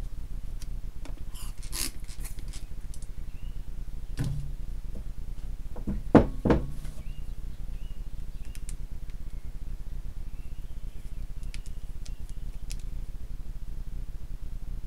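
Tools and brake parts handled on a workbench: scattered light clicks, a small knock, then two louder knocks in quick succession about six seconds in, over a steady low hum. Faint short bird chirps come through now and then.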